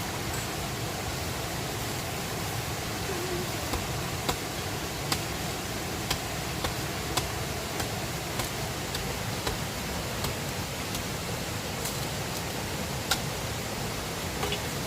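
Steady rushing of a river, with sharp, irregular clicks roughly once a second.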